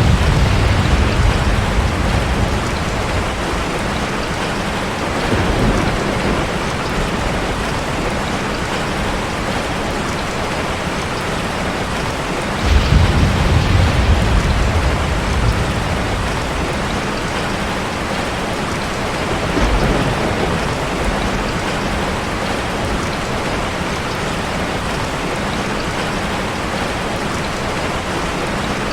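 Heavy rain hitting a car, a steady dense patter, with low rolls of thunder: one at the start, a faint one about five seconds in, the loudest coming in suddenly about thirteen seconds in, and a smaller one near twenty seconds.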